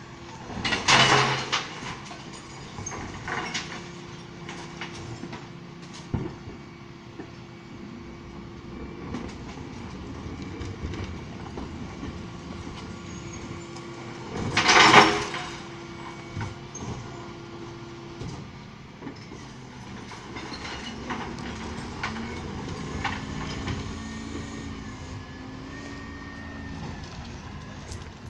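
A bin lorry's Terberg bin lifter emptying recycling bins over a steady hum of the idling truck and its hydraulics. There are two loud crashes, one about a second in and one about halfway, as bins are tipped and banged into the hopper, and a held whine from the lift runs between them.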